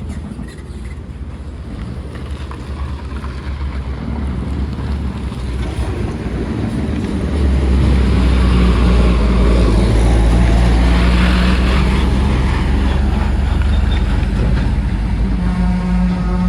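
Heavy truck engine labouring on a hill as the truck comes closer, growing louder and loudest from about halfway through.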